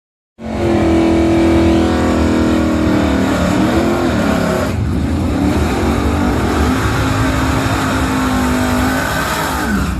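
Car engine at high revs under hard acceleration, a steady pitched drone with a brief break about five seconds in and the pitch dropping near the end.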